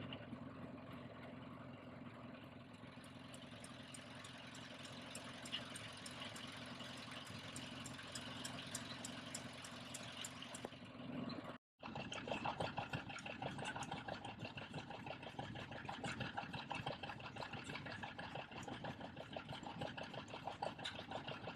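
Vintage stationary engines running with a steady, repeating beat. Just under two-thirds of the way through, the sound cuts to a different engine, a little louder and with a more distinct beat.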